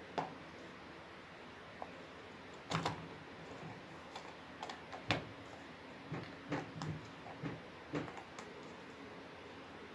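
Irregular clicks and knocks of hard plastic parts of a hair dryer's casing being handled and fitted back together, with louder knocks about 3 and 5 seconds in.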